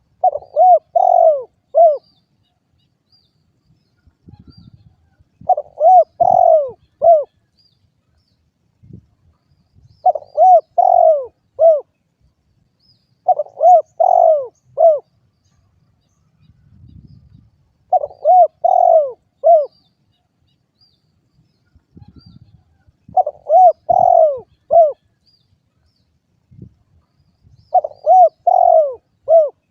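Spotted dove cooing: seven short phrases of four or five low, arched coos, repeated every four or five seconds.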